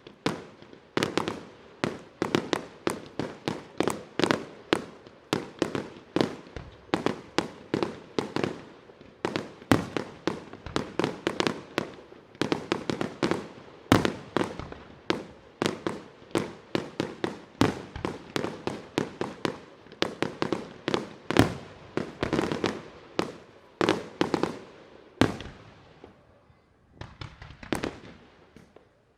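Fireworks bursting overhead in a rapid barrage of sharp bangs, several a second, thinning to a brief lull near the end before starting again.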